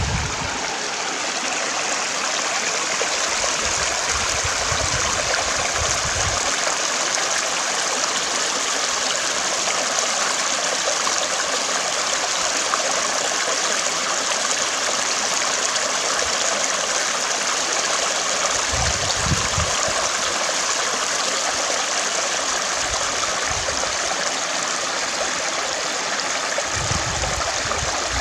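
Water in a stream running over stones, a steady rushing with a continuous splashing hiss. Now and then a low rumble comes in under it, around a few seconds in, once mid-way and again near the end.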